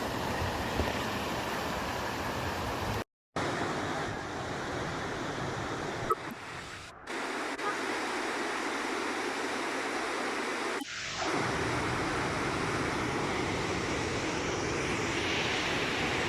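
Steady rushing of water, broken by abrupt cuts about three, seven and eleven seconds in.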